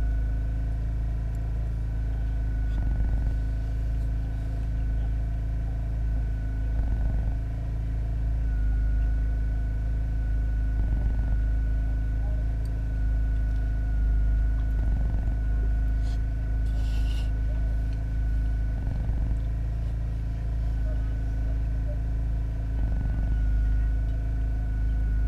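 Steady motor hum over a deep rumble, with a thin steady whine on top and faint swells about every four seconds. A brief hiss about two-thirds of the way through.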